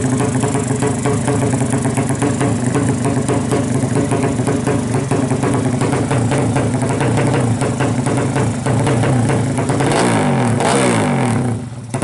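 200 cc racing motorcycle engine running hard, its pitch falling about ten seconds in, with music playing over it.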